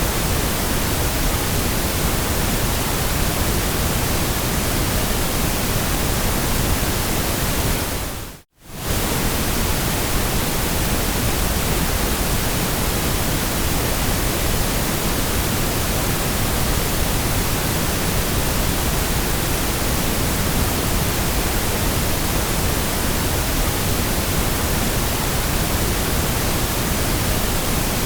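Steady, even hiss of electronically generated noise of the white/pink kind. About eight and a half seconds in, it fades down to near silence for a moment and comes straight back.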